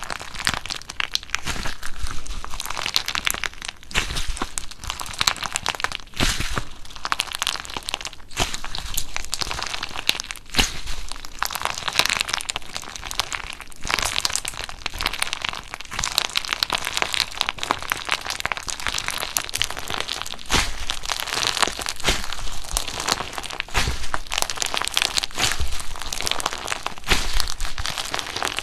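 Slime being squeezed, poked and worked by hand, giving a dense, continuous stream of small clicks and pops that goes on without a break.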